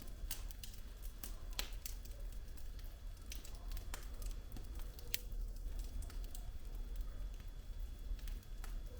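Wood fire in a fireplace crackling: irregular sharp pops and snaps from the burning logs over a low steady rumble of the flames.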